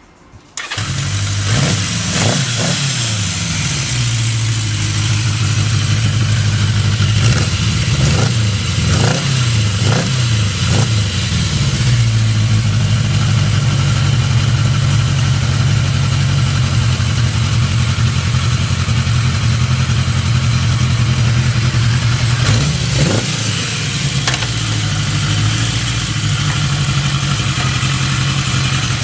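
Yamaha XJ650 Special motorcycle's air-cooled inline-four starts up about half a second in, then idles through its exhaust. It gets several quick throttle blips in the first ten seconds or so and one more later.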